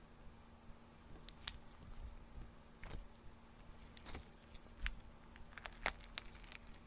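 Scattered faint clicks and light crinkles of small objects being handled, over a steady low hum.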